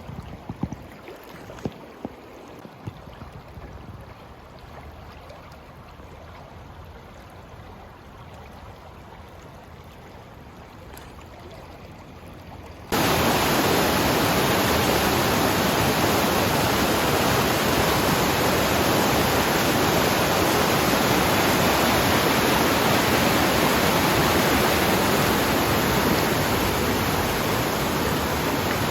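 Water of a rain-swollen mountain river flowing, with a few sharp knocks near the start. About halfway through it cuts suddenly to a much louder, even rushing noise.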